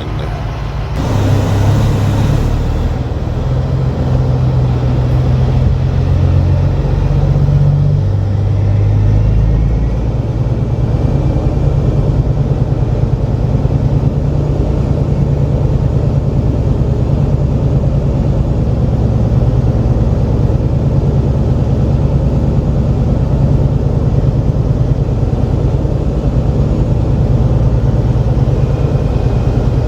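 Loaded grain semi's diesel engine heard from the cab, pulling slowly with its engine speed stepping up and down during the first ten seconds, then running steadily. There is a short hiss about a second in.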